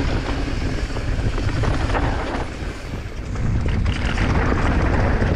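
Wind buffeting the rider's camera microphone over the noise of mountain bike tyres rolling and rattling down a loose, rocky trail at speed, easing briefly about halfway through.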